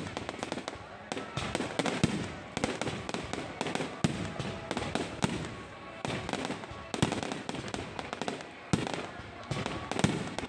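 Low-altitude fireworks going off in rapid volleys of bangs and crackles, with a sharper, louder bang every second or two.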